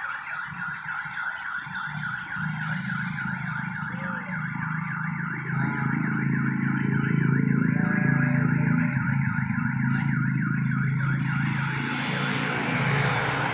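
Small 12 V battery-powered water pump running and spraying, a steady hum under a whine that warbles up and down about three or four times a second, with the hiss of the spray.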